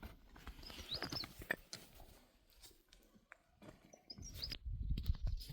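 A few short, high bird chirps, about a second in and again near the end, over scattered clicks and knocks and a low rumble that grows louder in the second half.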